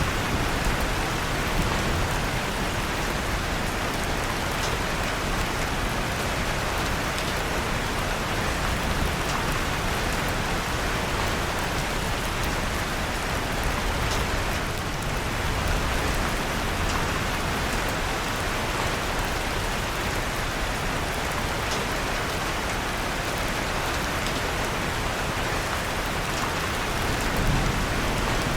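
Steady rain falling, with a few faint crackles from a wood fire in a fireplace here and there.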